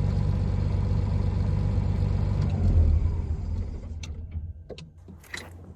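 Diesel engine of a Timberjack timber processor running steadily, then throttled down about three seconds in so it runs much quieter. A few sharp clicks and knocks come near the end.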